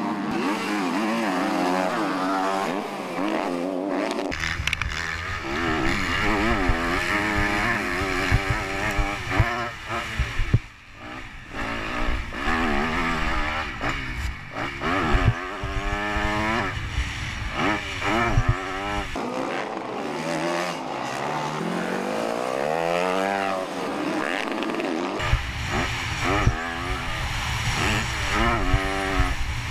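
Motocross bikes racing, engines revving up and down through the gears again and again, often several at once. The sound changes abruptly several times.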